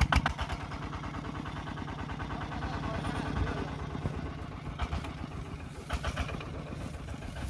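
Tractor engine running steadily with a fast, even chugging beat.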